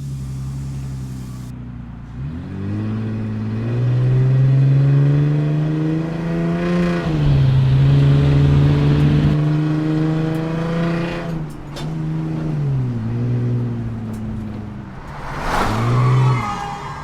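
Dubbed-in car engine sound effect, accelerating hard: the engine note climbs in pitch, drops back at each gear change and climbs again, several times over. A brief burst of higher, harsher noise comes near the end.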